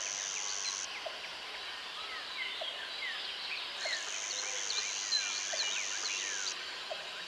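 Jungle ambience: a dense chorus of many birds chirping and whistling, over a steady high-pitched insect buzz that stops about a second in and comes back near four seconds for about three seconds.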